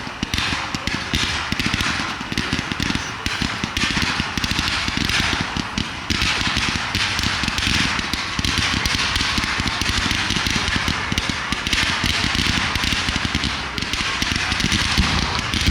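Fireworks crackling: a dense, continuous run of rapid small pops and crackles.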